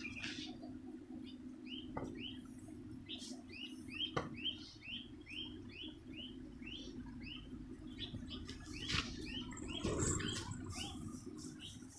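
A small bird chirping over and over, short rising chirps about two or three a second, over a steady low hum, with a few sharp knocks.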